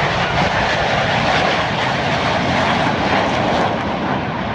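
Jet noise from Northrop F-5 Tiger II fighter jets flying past: a loud, steady rush of engine sound.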